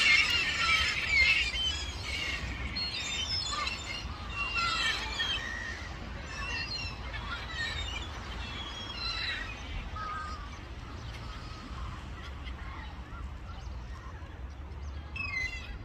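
A flock of gulls calling: many short, high cries overlapping. They are densest and loudest in the first few seconds, sparser through the middle, and come in a brief cluster again near the end.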